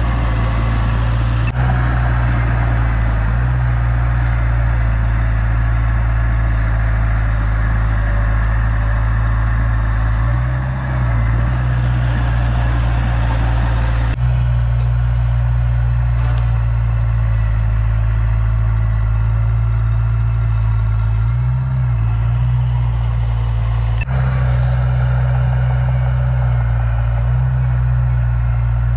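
Heavy diesel engine of earthmoving machinery running steadily with a deep drone and a rougher mechanical rumble above it. The sound changes abruptly three times, as at edits in the footage.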